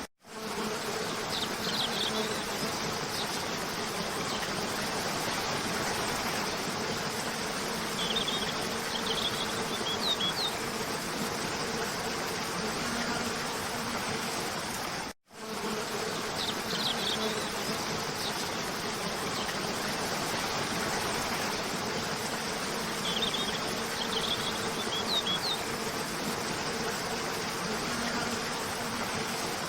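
Steady rush of a cascading waterfall under a continuous low buzz, with a few clusters of short bird chirps. The track is a loop that drops out for a split second and restarts about halfway through.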